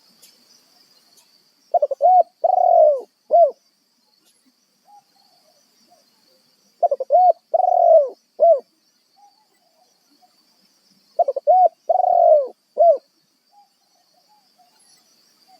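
Spotted dove cooing: three phrases about every four and a half seconds, each a couple of short coos, a longer drawn coo and a last short coo. It is a decoy dove calling to draw in wild doves.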